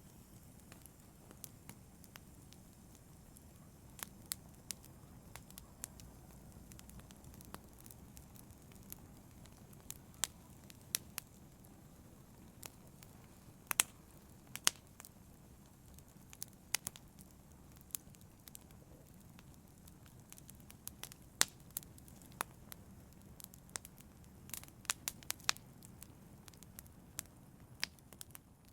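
Fire in a fireplace crackling: irregular sharp pops and snaps over a low, steady rumble of the flames, with the pops coming thicker near the end.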